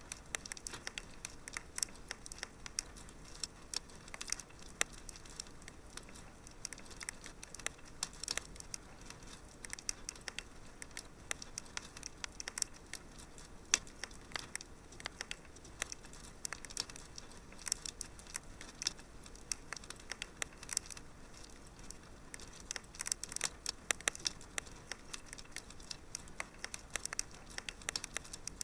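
Wood fire crackling in a fireplace: many small irregular pops and snaps over a faint steady hiss.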